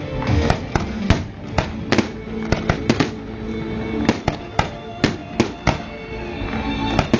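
Fireworks display with a dozen or more sharp bangs at irregular intervals, some coming in quick clusters. Music with sustained tones plays underneath.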